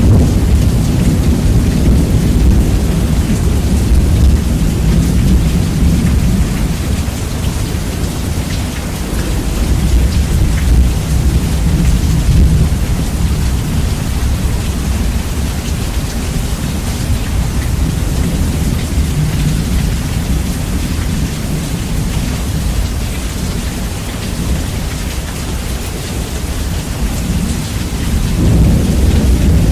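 Heavy rain with rumbling thunder, bass-boosted so that the low rumble dominates; the rumble swells near the start and again near the end.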